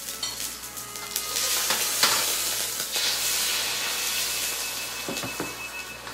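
Beaten egg frying in hot butter in a wok: the sizzle swells sharply about a second in, as the egg goes into the pan, then eases a little. A few short taps near the end.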